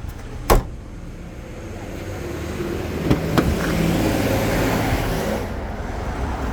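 A sharp thump about half a second in, then a passing road vehicle whose noise swells for a few seconds and fades, with a couple of light knocks in the middle.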